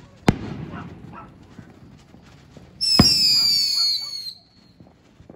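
Fireworks going off: a sharp bang followed by crackling, then about three seconds in another bang together with a loud, high whistle that falls slightly in pitch and stops after about a second and a half.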